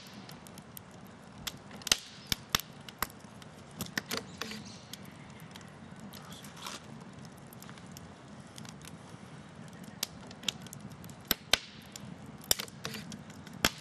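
Campfire crackling, with irregular sharp pops and snaps from the burning wood over a low hiss.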